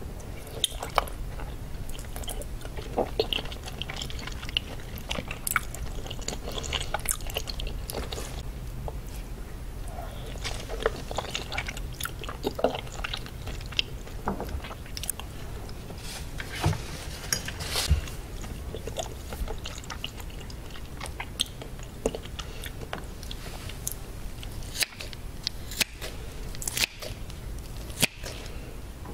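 Close-miked chewing of raw salmon sashimi: soft wet mouth and lip smacks and small clicks. Near the end, a few sharp snips of scissors cutting into an octopus.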